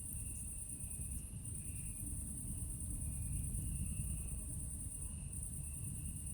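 A steady, high-pitched chorus of night insects, with a second, lower insect trill that swells and fades in phrases of about a second. Under it runs the low, even rumble of a campfire, with a few faint crackles.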